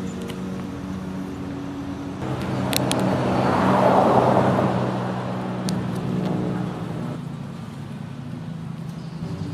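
Road traffic: a vehicle passes, its sound rising and fading away and loudest about four seconds in, over a steady low engine hum.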